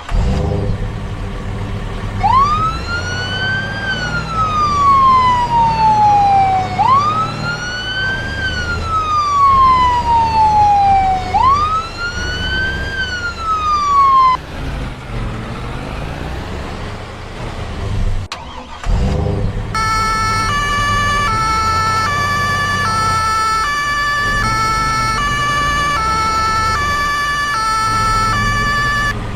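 Cartoon vehicle sound effects: a low engine rumble under a wailing siren that rises quickly and falls slowly, three times over. After a break about two-thirds of the way through, a simple electronic tune of repeating beeping notes.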